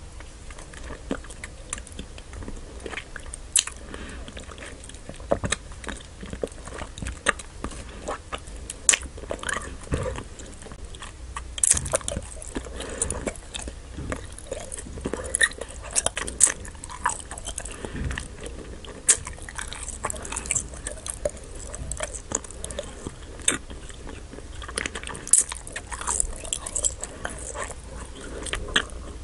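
Close-miked chewing of Nik-L-Nip wax bottle candy, the chewy wax giving irregular wet clicks and smacks in the mouth.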